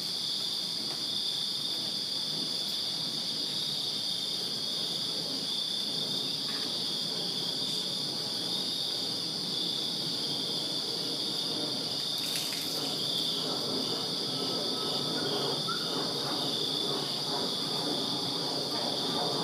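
Summer-night chorus of crickets chirping, a steady high trill at two close pitches, the lower one pulsing evenly in the second half. A low, faint rumble builds under it near the end.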